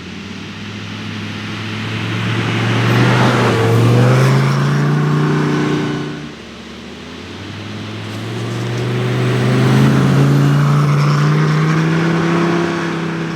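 Lamborghini Gallardo V10 accelerating hard on a snowy road. The engine note climbs and grows louder, drops at an upshift about six seconds in, then climbs again through the next gear.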